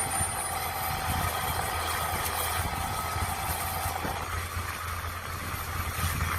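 Mini excavator engine running steadily, a constant low hum with a slight change in tone about four seconds in.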